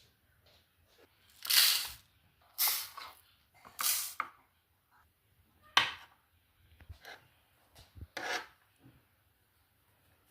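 Handling sounds of preparing bird food: three short, noisy rubbing or scraping strokes in the first four seconds, a sharp click about six seconds in, and another stroke near eight seconds.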